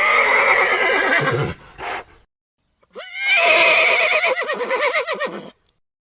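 Horse neighing twice: a first whinny lasting about a second and a half with a brief sound after it, then a longer whinny about three seconds in whose pitch wavers rapidly.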